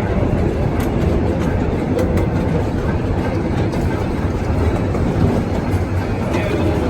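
Small park train running along its track, heard from its open-air car: a steady rumble of wheels on the rails with a few faint clicks.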